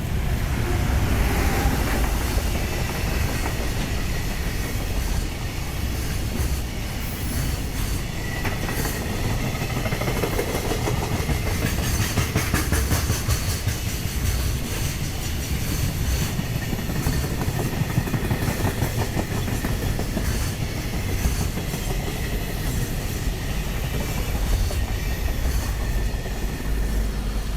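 A long freight train passing through a station at speed, wheels clattering steadily over the rail joints, with a brief faint wheel squeal.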